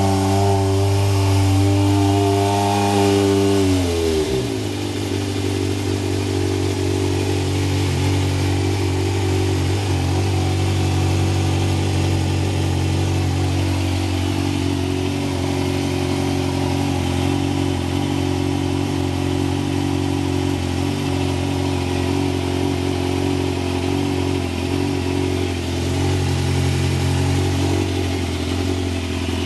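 Yamaha Thundercat's carbureted inline-four, fitted with a Vance & Hines aftermarket exhaust, running at raised revs that drop about four seconds in to a steady idle. The engine is warming up on its first start after winter storage.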